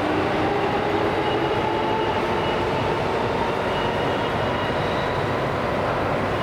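Electric train running, its motor whine rising in pitch as it picks up speed, then holding steady over the continuous running noise.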